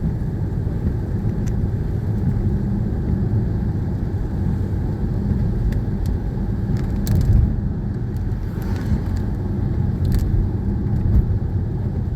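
Steady low rumble of road and engine noise heard inside a moving car's cabin, with a few light clicks.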